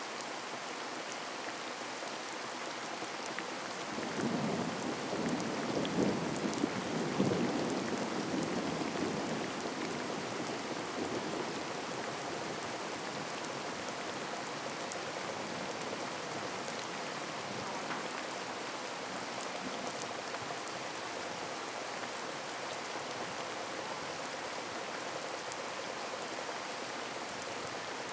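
Heavy rain falling steadily in a downpour. A low rumble of thunder starts about four seconds in, peaks a few seconds later and dies away over several seconds.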